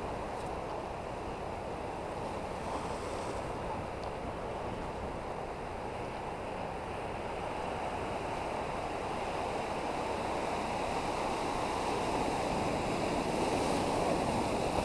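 Sea surf washing against a rocky shore: a steady rushing that swells a little louder near the end.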